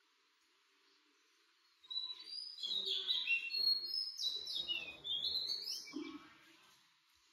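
Birds chirping and singing: a busy run of quick high whistles and trills starts about two seconds in and tails off near the end.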